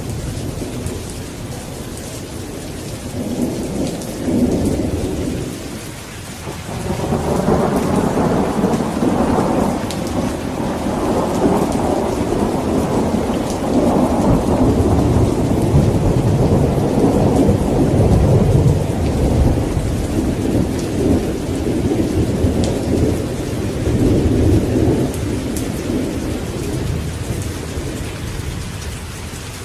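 Steady rain falling during a thunderstorm, with a long rolling rumble of thunder that swells a few seconds in and slowly fades away near the end.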